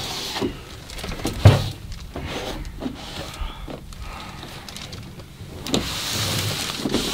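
A cloth rubbing over varnished wooden walls as they are washed down, with one sharp knock about one and a half seconds in.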